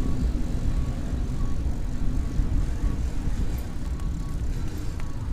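Wind buffeting a bicycle-mounted camera's microphone while riding, a gusty low rumble mixed with road noise.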